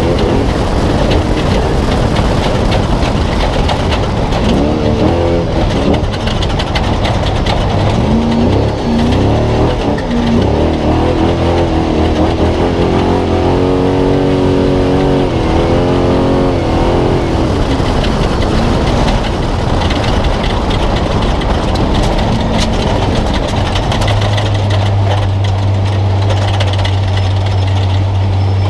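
Spec Trophy Truck's V8 engine heard from the cab, its pitch rising and falling as it revs. It settles to a steady low idle about 24 seconds in, over constant rattling and road noise.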